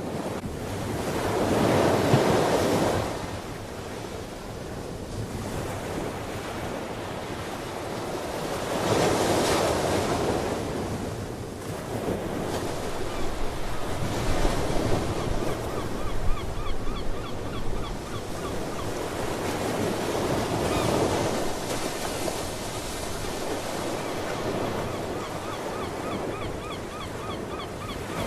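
Ocean surf breaking and washing ashore in slow surges every several seconds, over a steady hiss of water and wind on the microphone. Sea birds call faintly and repeatedly through the middle.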